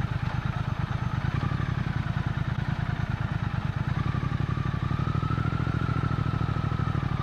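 Motorcycle engine running steadily at cruising speed, a rapid even pulse of firing strokes heard while riding.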